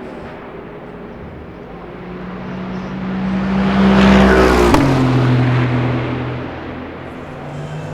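A racing car passes at speed. Its engine grows louder to a peak about halfway through, and the pitch drops sharply as it goes by before it fades away. Fainter engine noise from other cars can be heard around it.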